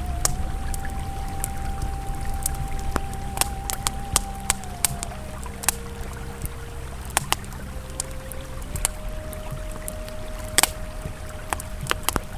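Campfire crackling with frequent sharp, irregular pops over the low steady rush of a flowing river, with soft ambient music of long held notes that change about halfway through.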